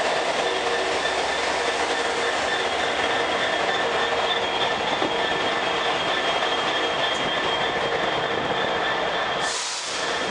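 A train running on the rails through a station: steady wheel-and-rail noise with a thin, steady high wheel squeal. The sound changes abruptly to a brighter hiss about nine and a half seconds in.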